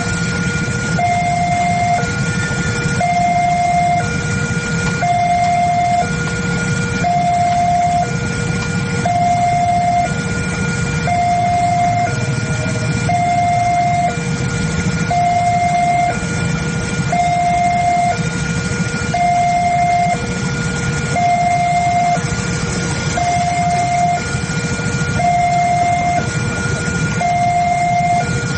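Railroad level-crossing warning alarm sounding, an electronic two-tone signal alternating steadily between a lower and a higher note about once a second. A steady low rumble runs underneath.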